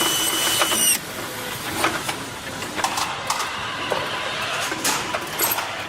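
Truck assembly-line noise: a steady high-pitched machine whine that stops about a second in, then scattered clicks and clanks of tools and parts against a continuous hum of machinery.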